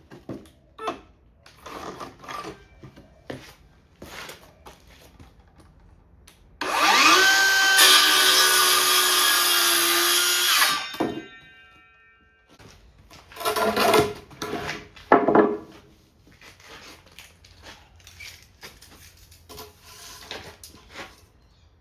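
Power drill running for about four seconds a third of the way in, its motor whine rising as it spins up and then holding steady before it winds down. Around it, knocks and clatter of timber being handled.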